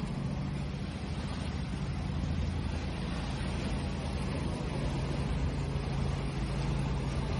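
Ocean waves: a continuous rush of surf with a steady low rumble underneath.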